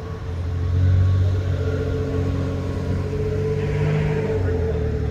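A car engine running steadily, a low hum with a faint higher tone over it.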